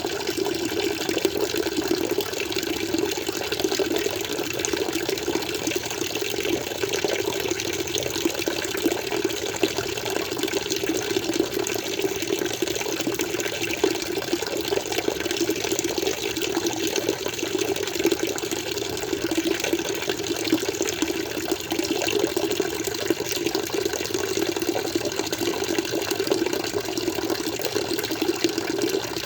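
Aquarium water flowing steadily, an even rushing and trickling with no breaks.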